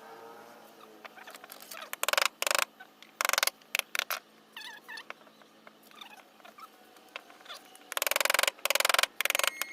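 Short scraping strokes of a hand tool on wood, coming in uneven bursts, with one longer stroke near the end. Faint squeaky gliding sounds come in the first second.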